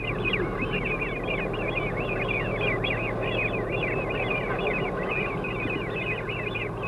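Birds calling in a quick, continuous run of short high chirps, about four or five a second, over a steady low hum.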